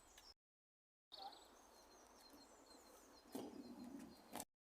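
Near silence, with faint wild birdsong: small high chirps and twitters. Broken twice by short gaps of dead silence, with a slightly louder rustling patch shortly before the end.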